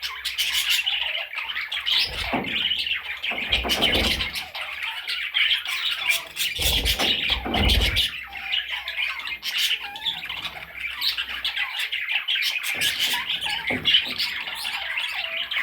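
Budgerigar chattering and squawking without pause in a dense, scratchy warble, with a few low thumps.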